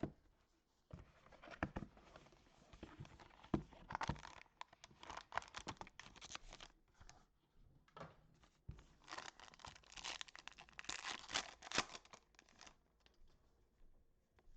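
Sealed wrapping being torn open and crinkled by hand as a trading card box is opened, in irregular rustling bursts that die away near the end.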